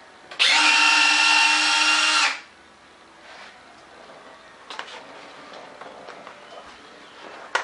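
A small electric motor whines at a steady pitch for about two seconds, starting and stopping abruptly, followed by a few faint clicks.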